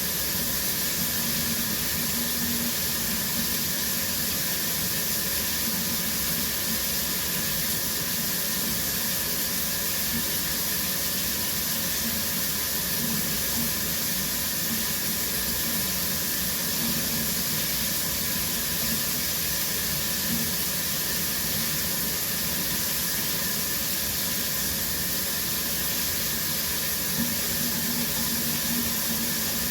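Shower running steadily, water spray hissing onto the floor and tub.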